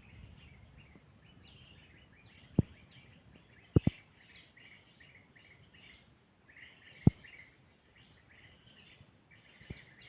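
Small birds chirping in a dense, continuous run of short high calls. Several sharp thumps cut through: one about a quarter of the way in, a quick pair soon after, another past the middle and a fainter one near the end.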